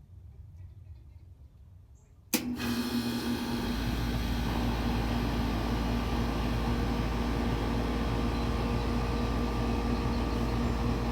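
Outdoor HVAC unit (air conditioner or heat pump) running: faint low rumble, then a click about two and a half seconds in and a sudden jump to a loud, steady whir with a constant hum and a deep low drone.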